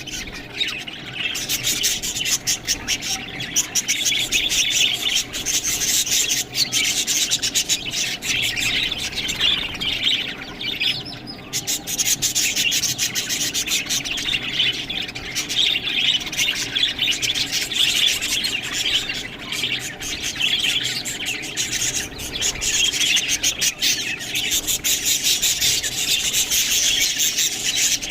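Budgerigars chattering and chirping continuously, a dense busy warble with many sharp clicks mixed through it.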